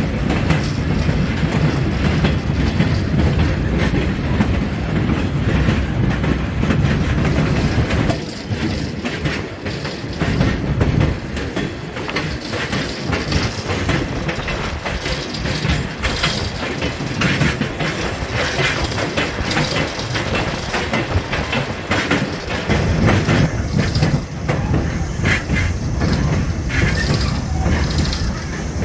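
A passenger train rolling along, heard from an open car: steady rumble and rattle of the car, with the wheels clicking over rail joints, the clicks most frequent in the second half.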